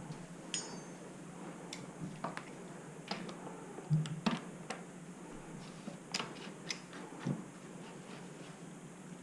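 A series of irregular light clicks and knocks over a low steady hum, the strongest pair about four seconds in.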